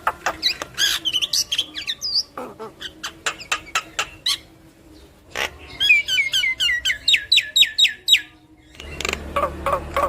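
Javan myna (jalak kebo) singing: a busy run of sharp clicks, whistled notes that sweep up and down, and a fast string of falling chattering notes, with a short break about eight seconds in before it starts again.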